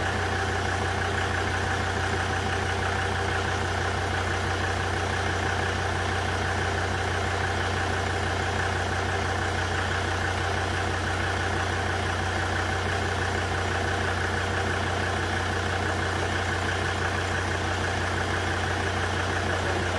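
Volvo V70 D5's five-cylinder turbodiesel engine idling steadily.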